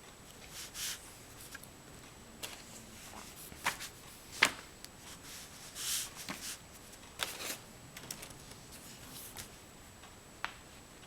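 Scratchy strokes of oil pastel working on paper, with scattered sharp clicks and taps. The loudest tap comes about halfway through.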